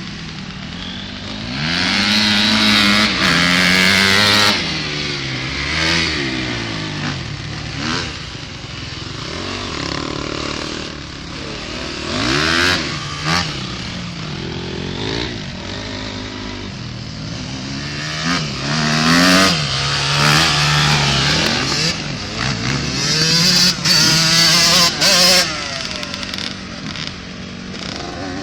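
Motocross dirt bikes revving and riding past, their engine pitch rising and falling again and again with throttle and gear changes. The loudest passes come a few seconds in, about two-thirds of the way through, and near the end.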